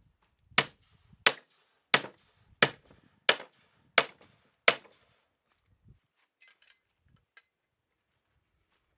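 Hammer blows: seven sharp, evenly spaced strikes, about three every two seconds, then the hammering stops.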